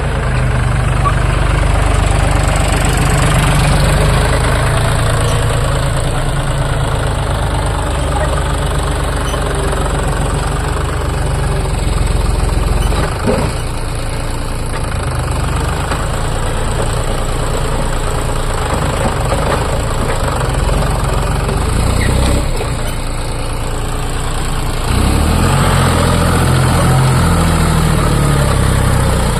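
John Deere tractor's diesel engine running steadily, working a krava scraper through soil; its note gets louder and changes about twenty-five seconds in.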